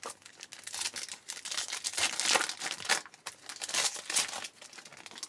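Trading-card pack wrapper being torn open and crinkled by hand, a busy run of crackling and rustling.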